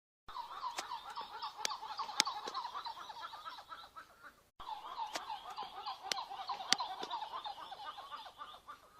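A group of monkeys giving many rapid, overlapping chirping calls, with a few sharp clicks among them. The calls cut off about halfway and start again.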